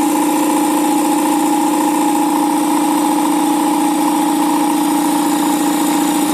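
Electric air compressor pump running steadily under load with a constant mechanical hum.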